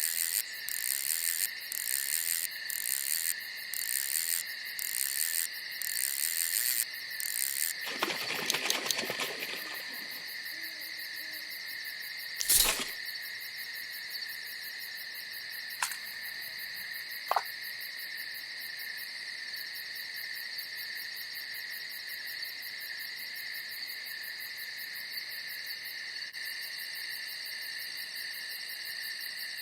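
Night insects chirring steadily in two high, even tones, with a pulsing chirp about once a second over the first several seconds. A brief noise comes about a third of the way in, then a sharp click near the middle and two small clicks soon after.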